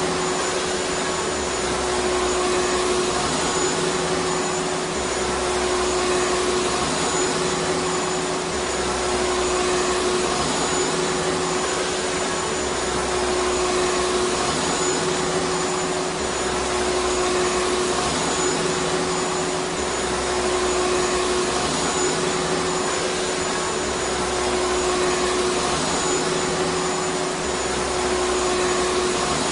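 Vacuum cleaner running continuously: a steady rushing hiss of air with a constant whine. A low hum swells and fades every few seconds.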